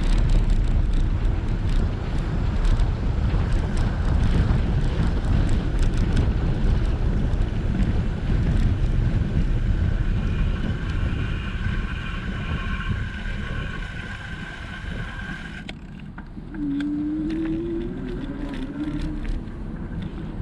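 Wind buffeting the microphone of a camera on a moving e-bike, with a dense low rumble, and a thin steady whine joining partway through. The wind noise eases a little past three-quarters of the way through.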